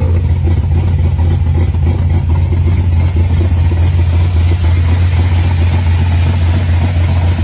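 A gasser's carbureted V8 idling steadily, a constant low-pitched engine note.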